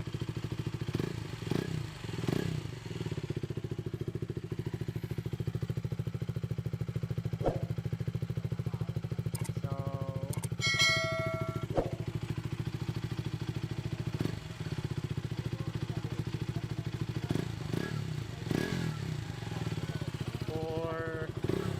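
KTM Duke 200's single-cylinder engine idling steadily through an Akrapovič titanium slip-on exhaust run open, without its silencer insert, with a deep bassy note and a few light swells. A short high tone sounds about ten seconds in.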